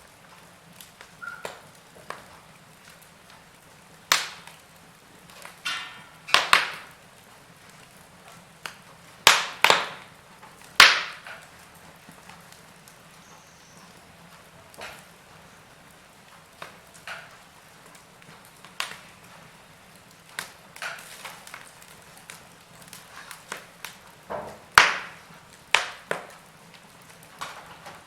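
Wood fire crackling in a fireplace, with irregular sharp pops and snaps. The loudest come about four seconds in, in a cluster around nine to eleven seconds, and again near twenty-five seconds.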